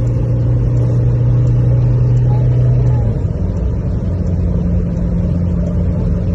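Toyota Fortuner engine and road noise under way during an acceleration run: a steady low drone whose note shifts about three seconds in.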